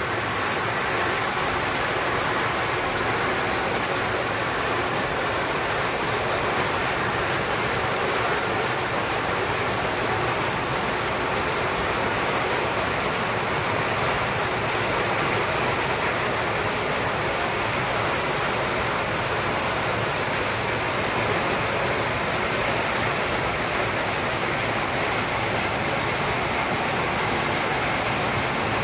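Loud, steady rush of water with no breaks or distinct events.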